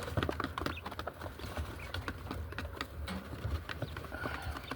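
A rapid, irregular run of light clicks and taps from a pigeon cage as the birds are handled and move about, over a low steady hum.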